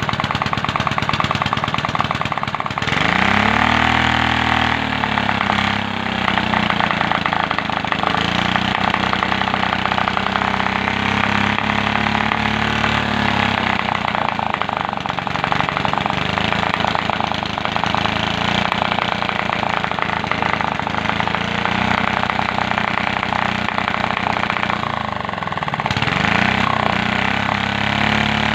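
Ketinting longtail boat engine running just after its service and reassembly, its speed dipping and picking back up a few seconds in and again near the end.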